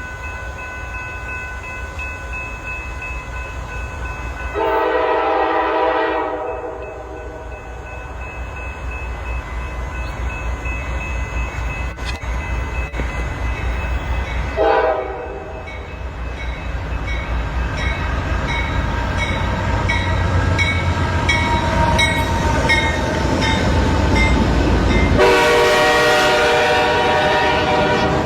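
Five-chime locomotive air horn, a K5LA or Nathan P5 type, on Norfolk Southern AC44C6M freight locomotives. It sounds three times over the rumble of a passing train: a blast of about a second and a half, a short blast, and a long blast near the end.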